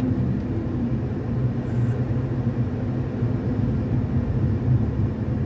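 Steady road and engine rumble heard inside a moving car.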